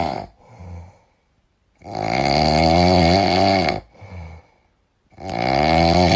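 Loud snoring: two long snores about three seconds apart, each with a wavering pitch, and a short quieter breath between them.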